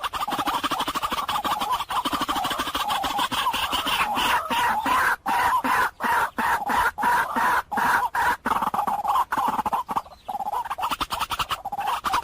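White-breasted waterhen calling: a fast, continuous run of rapid repeated notes, broken by brief gaps in the second half and a longer pause near the end before it starts again.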